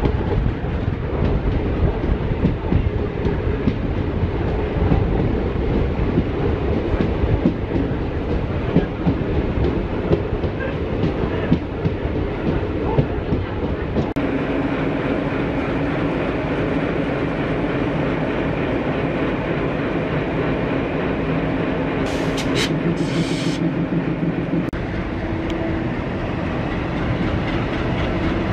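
Passenger train running on the rails, heard from on board a coach: wheels clattering over rail joints with the rumble of the running gear. About halfway through the clatter eases into smoother running with a steady low hum, and a brief high hiss comes near the end.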